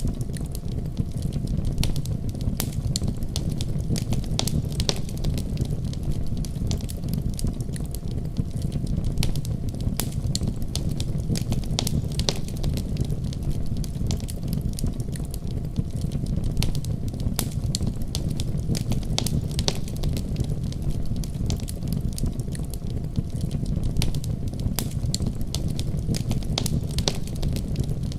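Wood fire crackling, with frequent irregular sharp pops, over a steady deep rumble of a winter storm.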